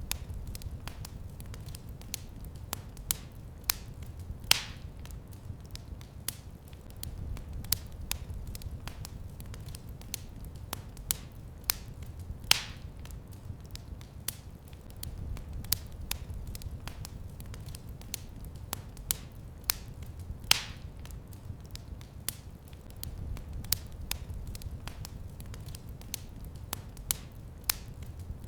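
Wood fire crackling in a fireplace: a steady scatter of small crackles with a few louder pops, over a low rumble of the flames.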